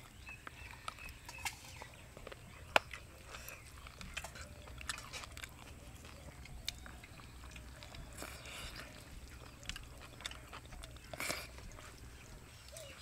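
Close-up eating sounds of a person eating rice and chicken curry by hand: soft chewing and lip-smacking with scattered small clicks, one sharp click about three seconds in.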